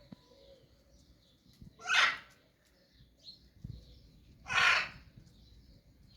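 An animal calling: two loud, harsh calls, each short, about two and a half seconds apart.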